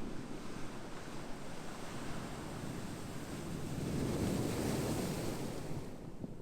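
Ocean waves washing in, with a wave swelling and breaking about two-thirds of the way through before its hiss falls away.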